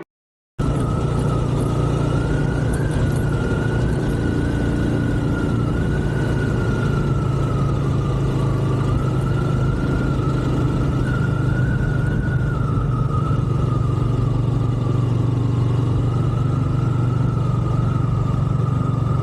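Motorcycle running steadily while riding at a constant pace, a strong low engine drone with a thin high whistle that wavers slightly in pitch.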